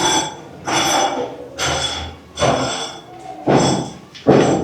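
Hammer blows struck steadily, about one a second, each with a ringing clink that dies away before the next.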